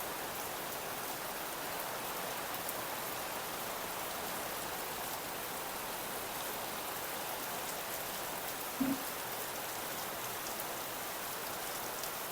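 Steady rain falling, an even hiss of drops. About nine seconds in, a brief short pitched sound rises above the rain.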